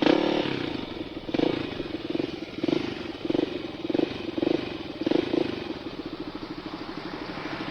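Dirt bike engine running at low speed, surging repeatedly with throttle blips about every half second to second, then settling to an even, steady putter for the last couple of seconds.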